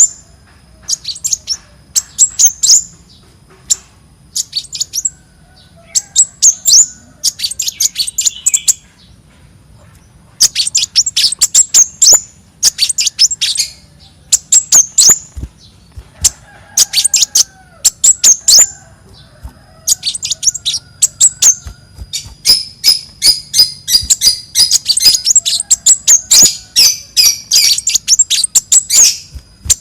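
Konin songbird singing: quick strings of sharp, high chirps in phrases about a second long with brief pauses between them, turning into a dense continuous run of chirping near the end. A faint steady high tone lies beneath the song.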